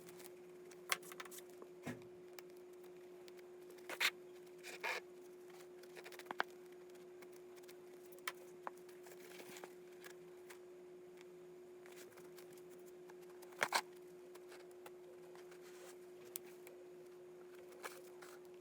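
Scattered light clicks, taps and short rustling scrapes of hand work on a sneaker, over a steady hum.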